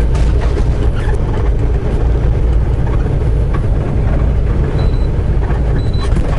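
Steady road and engine noise inside a semi-truck cab at highway speed: a heavy low rumble with scattered light rattles.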